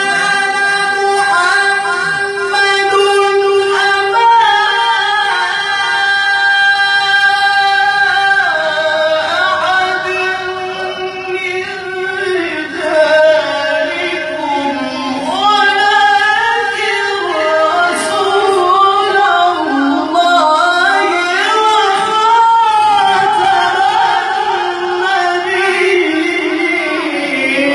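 A young qari's voice reciting the Quran in melodic tilawah style, holding one long high note for about eight seconds and then moving into winding, ornamented runs, with hardly a break for breath.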